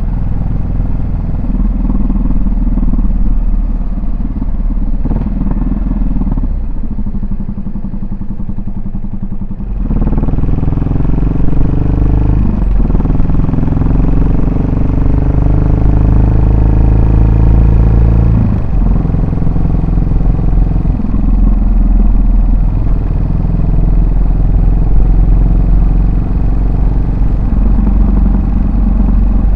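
Yamaha SR400's air-cooled single-cylinder four-stroke engine running on the road, heard through its exhaust. It runs softer for a few seconds, then opens up about a third of the way in and accelerates, the pitch climbing between brief drops as it shifts up.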